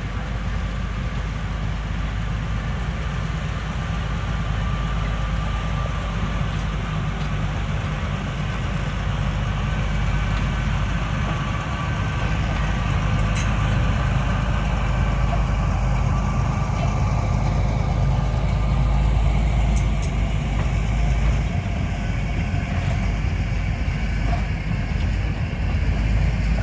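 Tourist train running with a steady low rumble that grows slowly louder, faint steady tones sounding above it.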